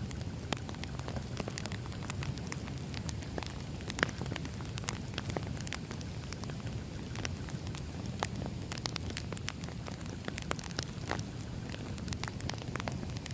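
Burning firewood crackling: a steady low rumble of the fire under irregular sharp pops and snaps, with one louder pop about four seconds in.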